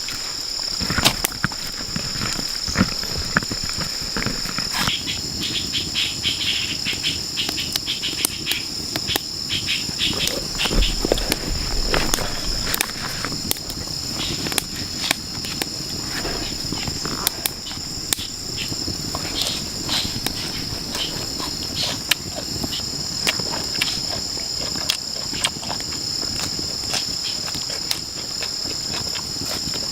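Steady high-pitched drone of a rainforest insect chorus, holding two pitches, with irregular clicks and knocks throughout.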